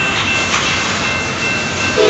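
Double-stack container train rolling past: a steady rumble and rattle of freight-car wheels on the rails, with a thin, high, steady tone over it.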